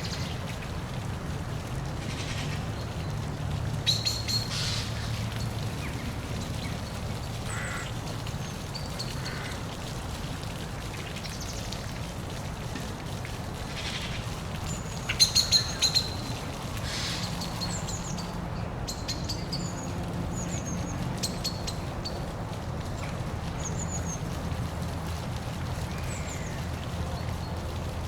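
Steady rush of a waterfall with birds chirping over it; the loudest chirps come about four seconds in and in a quick cluster near the middle.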